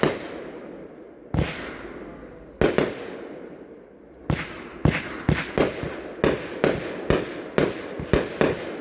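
Lava Sky 25-shot consumer firework cake firing: sharp aerial bursts, each with a fading crackling tail. Three bursts come over a second apart, then from about four seconds in the shots come quickly, two or three a second.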